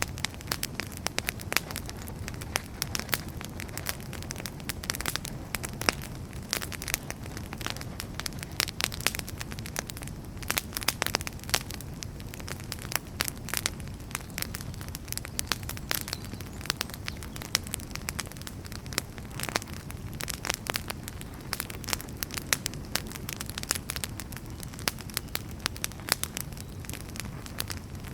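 Wood fire burning in a fireplace, crackling with many irregular sharp pops and snaps over a low steady rumble of flame.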